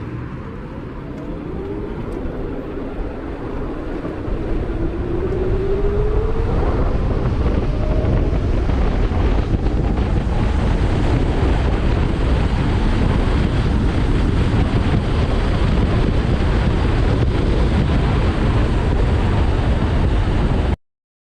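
Heavy wind noise on the microphone of a 72-volt DIY electric motorcycle riding at speed. The motor's whine rises in pitch over the first several seconds as it accelerates, and the sound cuts off suddenly near the end.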